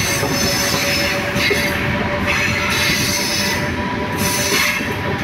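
Passenger train running at speed, heard from an open carriage doorway: steady rumble of wheels on rail with a continuous high wheel squeal over it.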